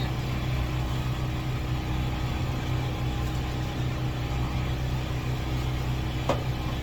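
Steady low machine hum, like a small engine or motor running constantly, with one brief sharp sound about six seconds in.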